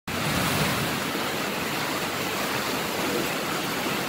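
Heavy rain pouring down: a steady, even rush of noise.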